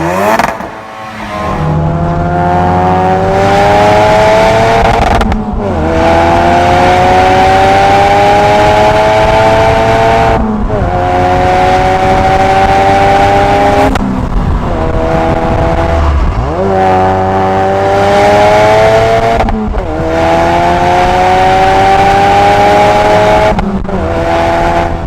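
Four-cylinder car engine accelerating hard through the gears. It climbs steadily in pitch and drops back at each gear change, about six times.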